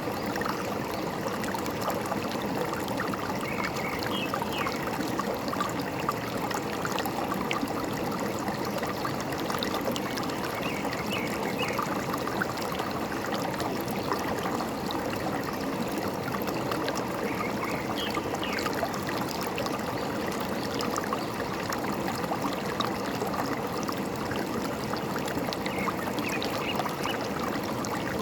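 Forest stream babbling and trickling steadily, with a few short bird chirps now and then above it.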